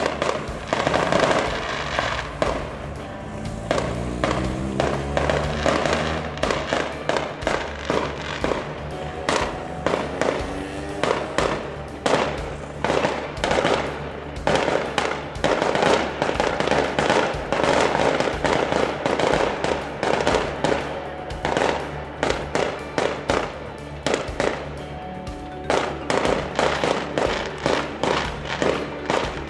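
Fireworks display: aerial shells going off in a rapid, irregular string of bangs and crackles, over background music.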